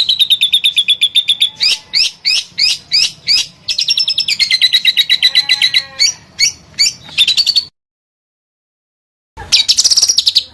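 A songbird singing loud, rapid trills of repeated notes, some held at one pitch and one sliding down then steady. The song cuts out completely for about a second and a half near the end, then a fast trill starts again.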